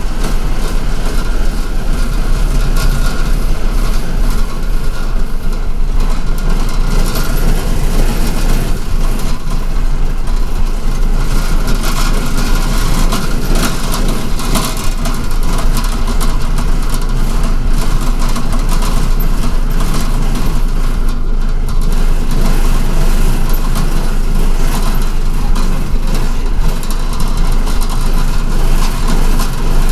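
Steady engine and road noise of an MTA city bus, heard from inside the passenger cabin while it drives along.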